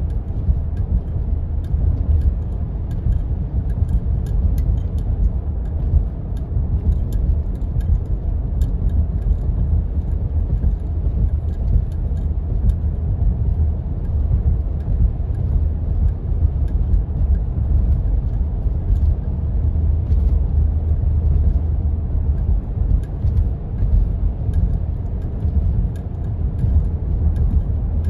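Jeep driving along a snow-covered road: a steady low rumble of engine and tyres, with faint scattered light ticks and rattles over it.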